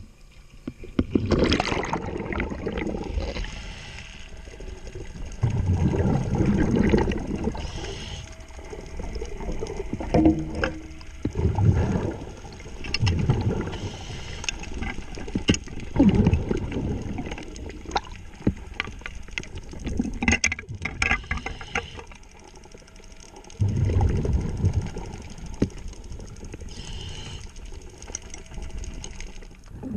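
Scuba diver's breathing and exhaust bubbles, heard underwater in surges every few seconds, with scattered sharp metallic clicks from a wrench working a yacht's propeller nut.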